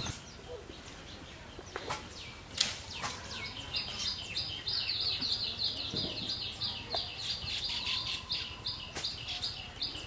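Baya weaver chattering: a fast run of high chirps, about five a second, that starts a few seconds in and keeps going. A couple of sharp taps come before it, the loudest about two and a half seconds in.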